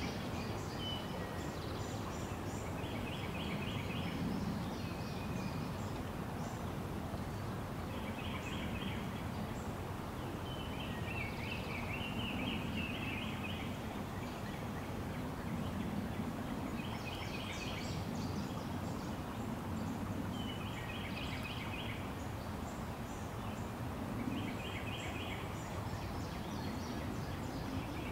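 Birds calling in short, rapid stuttering trills, one every few seconds, over a steady rushing outdoor background noise.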